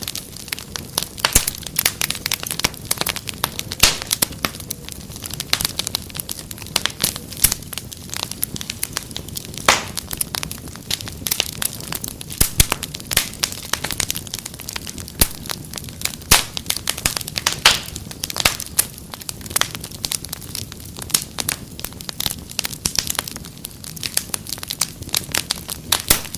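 Wood fire crackling: dense, irregular pops and snaps over a low steady hiss.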